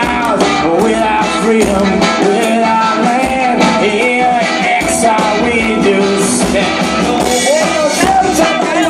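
Live band playing an instrumental passage of the song, with drums keeping a steady beat under gliding melodic lines.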